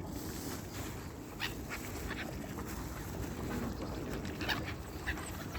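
Lake waterfowl calling: a few short calls about a second and a half in, then two more near the end, over a steady low background noise.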